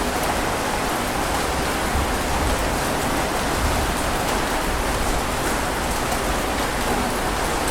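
Steady heavy rain falling on a surface, an even rushing hiss with scattered drop patter.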